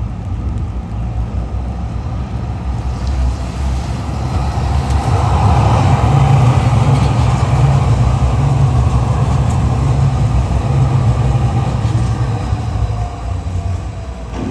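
A large motor vehicle passing close by with a deep engine rumble, growing louder to a peak midway and then fading away.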